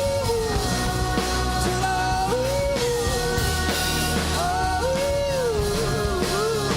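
Live pop-rock band playing an instrumental passage, with a gliding melody line over steady drums and bass.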